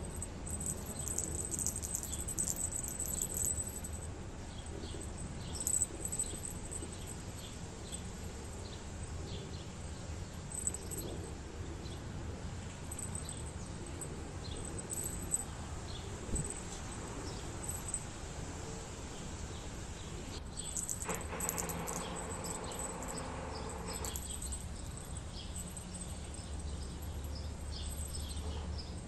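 Outdoor ambience: small birds chirping now and then over a low steady rumble, with a louder pitched sound held for about three seconds late on.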